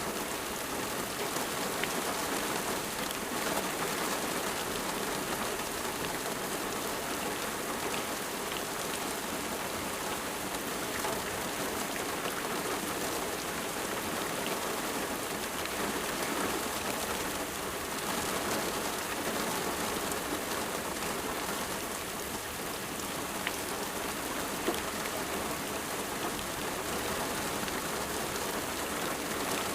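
Steady rain falling on a surface, an even hiss of many drops with a few separate drips ticking now and then.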